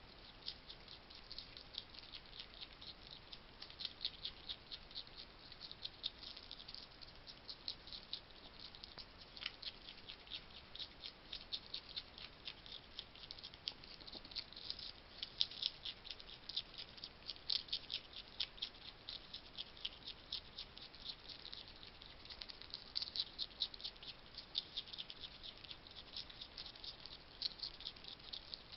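Wild hedgehog crunching dry food at a feeding station: a continuous, irregular run of rapid small clicks and crunches.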